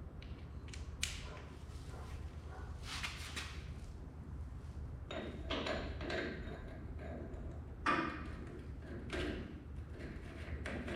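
Scattered clicks, knocks and scraping of parts and tools being handled, over a steady low hum; the sharpest knocks come about a second in and near eight seconds.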